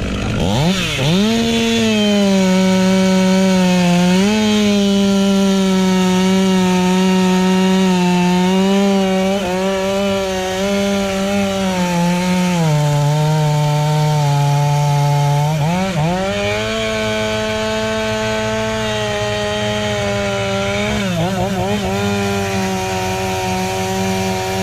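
Two-stroke chainsaw running at high revs while cutting wood. Its engine note sags briefly about four seconds in, holds lower for a few seconds past the middle as the chain loads up in the cut, then climbs back and dips again briefly near the end.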